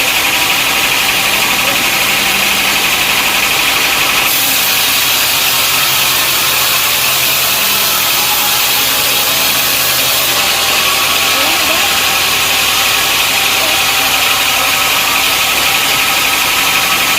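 Sawmill machinery running steadily: an engine drone under a loud hiss. From about four seconds in to about ten seconds in, the hiss turns brighter and louder, then settles back.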